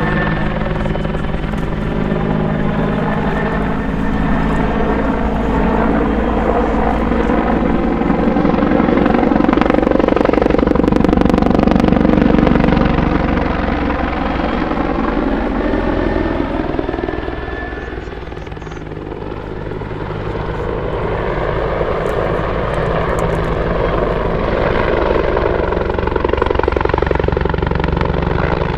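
RCAF CH-146 Griffon twin-turbine utility helicopter flying its display, with its four-blade main rotor beating over the turbine whine. It is loudest about ten seconds in, then falls in pitch and fades as it passes, before growing louder again as it comes back around.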